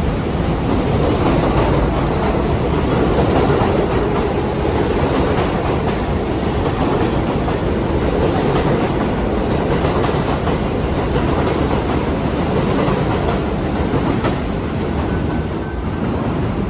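New York City Subway 1 train (R62A cars) running along the track: a steady, loud rolling rumble of steel wheels on rail, with a few clicks over rail joints.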